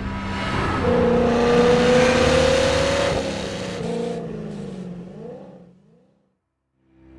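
Equus Bass 770's V8 engine revving, its pitch climbing for a couple of seconds, then falling away and fading out near the end.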